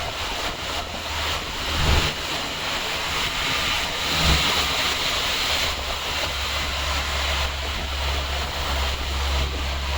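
Road traffic on a flooded, waterlogged street: a steady hiss of vehicles moving through water, with a low rumble of wind on the microphone. Two brief thumps come about two and four seconds in.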